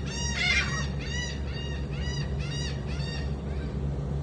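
Birds chirping repeatedly, about two short arched calls a second, stopping a little over three seconds in, over a steady low hum.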